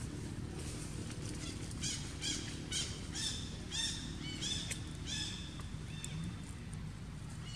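A bird calling in a run of about ten short, high chirps, roughly two a second, through the middle of the stretch, over a steady low background rumble.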